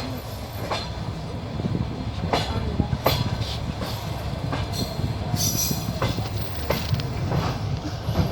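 Passenger train running along the track, heard from a carriage window. A steady low rumble with sharp, unevenly spaced clacks of the wheels over rail joints.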